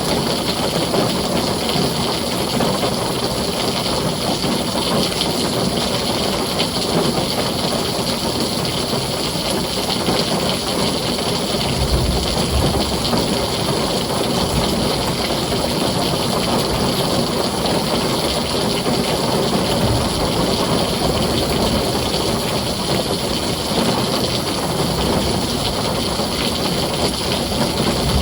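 Heavy rain drumming on a tin roof, a steady dense hiss. Low thunder rumbles come in briefly about twelve seconds in and again about eight seconds later, without raising the overall level much.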